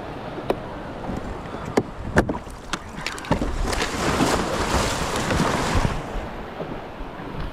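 A few sharp knocks, then surf rushing in for about three seconds before settling back to a steady wash.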